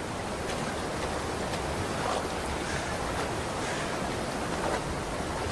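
Steady rushing noise of moving water.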